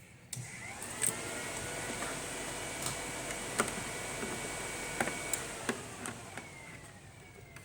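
A small electric motor whines up as the truck's ignition is switched on, runs steadily for a few seconds, then winds down and fades, with a few sharp clicks along the way. The engine is not cranked.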